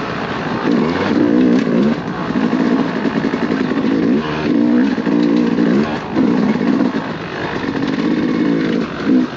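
Dirt bike engine revving up and down repeatedly as the throttle is opened and closed while riding a trail.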